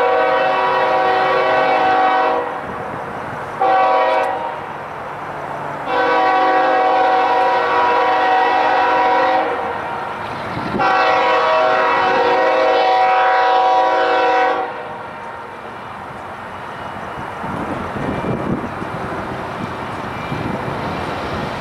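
Locomotive air horn sounding four blasts: a long one, a short one, then two long ones. The horn then stops, leaving the train's steady rumble and the clatter of wheels on the rails.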